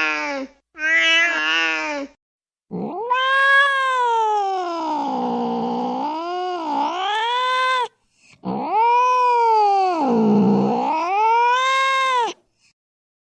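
A cat yowling: two short wavering meows, then two long drawn-out wails, each dropping low in pitch through the middle and rising again at the end.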